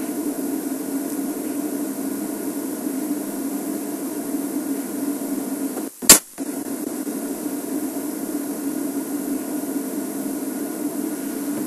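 Steady, noisy background hum. About six seconds in it drops out for a moment around a single sharp, loud click.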